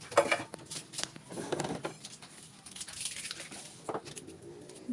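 Packing tape being peeled off a new refrigerator: a run of rustles and sharp clicks, with a longer high tearing hiss about three seconds in.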